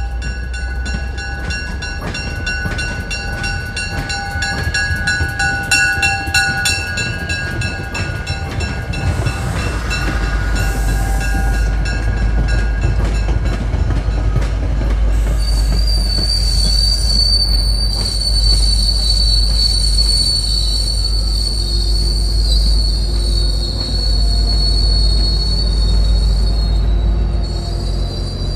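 MBTA commuter rail train rolling past close by with a low rumble, its steel wheels squealing against the rails. The squeal rings in several shrill tones over fast clicking for the first ten seconds, then settles into one high steady squeal from about halfway on.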